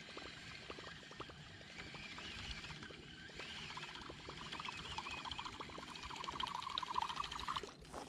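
Fishing reel being wound in during a retrieve: faint irregular clicking with a wavering whir that grows louder in the second half and stops shortly before the end.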